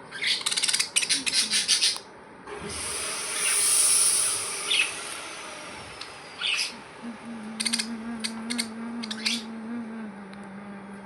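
Pet budgerigars chattering in rapid bursts, then giving scattered short chirps. A hiss runs for a couple of seconds after the first chatter, and a steady low hum starts in the second half.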